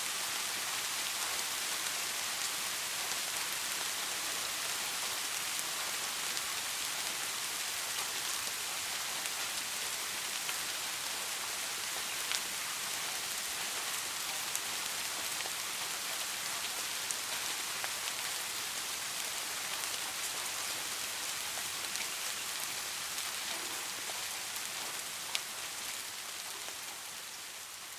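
Steady rain: a dense, even hiss with occasional sharp single-drop ticks, fading down over the last few seconds.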